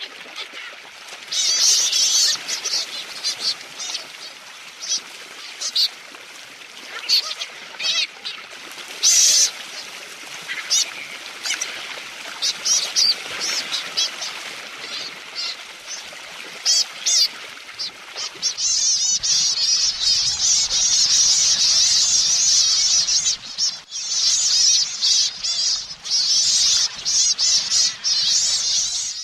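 Petrels calling: many short, high, chattering calls, becoming a dense run of rapid trilling calls about two-thirds of the way through.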